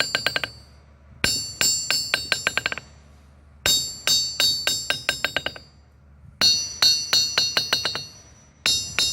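Hammer bouncing on a steel anvil face in a rebound test, four times: each drop rings out bright and is followed by a run of ever quicker, fading bounces. The lively rebound marks a good anvil despite some wear.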